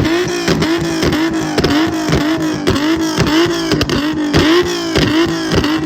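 Car engine revved and held against the rev limiter, its pitch bouncing on one note and cutting out about three to four times a second with sharp pops and crackles from the exhaust.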